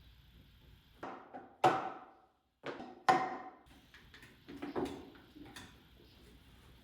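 Hard knocks and clatters of wood and tools being handled at the workbench, with two sharp, loud knocks about a second and a half apart, each ringing briefly, then lighter knocks.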